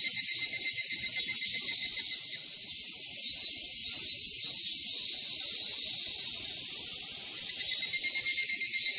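Cicadas singing: a loud, high buzz that pulses several times a second, settles into a steady drone about two and a half seconds in, and starts pulsing again near the end.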